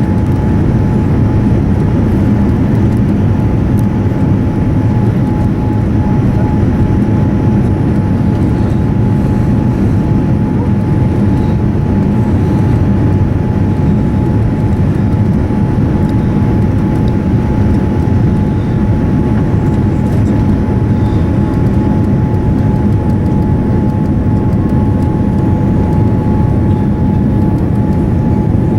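Steady jet airliner cabin noise inside a Boeing 787-9: an even rumble and rushing hiss with a faint steady whine running through it, unchanging throughout.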